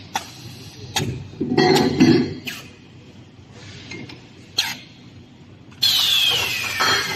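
Ringlock ledger welding machine at work, with a series of sharp metallic clicks and clanks. About six seconds in comes a loud hiss carrying a whine that falls in pitch.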